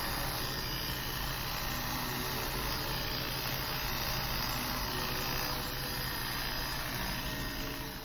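Steady rushing noise of an electric blower running, with a low motor hum under it.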